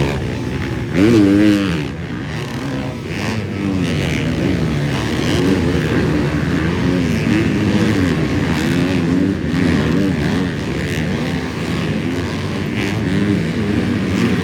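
Several 250-class motocross bikes racing, engines revving up and dropping through the gears over and over, with the loudest pass about a second in.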